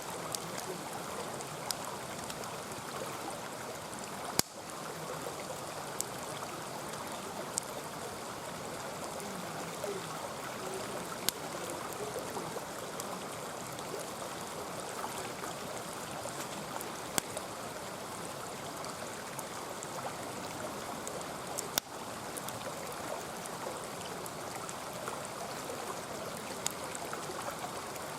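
Mountain stream flowing and gurgling steadily, with scattered sharp pops and crackles from a wood campfire, two of them louder.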